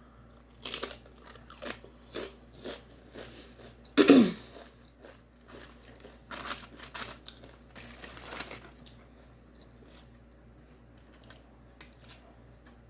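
Close-up chewing and crunching of food, in a run of short crunches that thin out after about nine seconds. About four seconds in comes a brief, loud cough-like sound from the eater.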